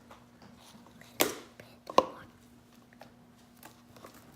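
Two sharp knocks about a second apart, with faint tapping and clicking between, from slime cups and supplies being handled on a tabletop.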